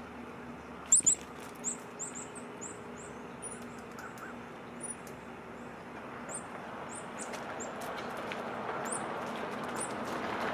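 Small birds chirping, a steady string of short, very high-pitched calls. Two sharp knocks about a second in are the loudest sounds, and a rush of background noise builds up over the second half.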